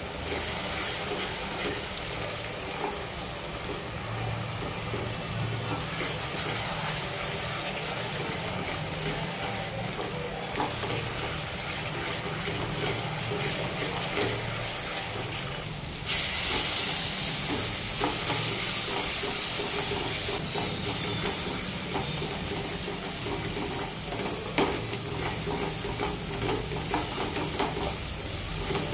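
Thick masala frying in oil in a metal pot, sizzling steadily while a spatula stirs it and scrapes the bottom of the pot. The sizzle grows louder for a few seconds just past the middle.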